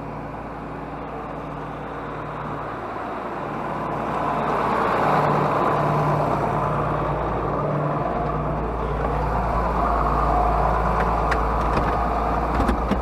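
Tractor diesel engine running as the tractor backs up, growing louder about four seconds in.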